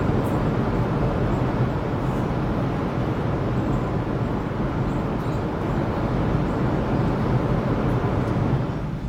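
Steady rumble and rush of a CRH Harmony high-speed train running, heard inside the passenger cabin.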